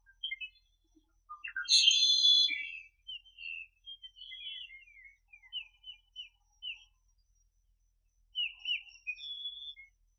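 Small birds chirping and trilling: a loud burst of quick chirps about one and a half seconds in, then scattered short chirps and brief trills with gaps between them.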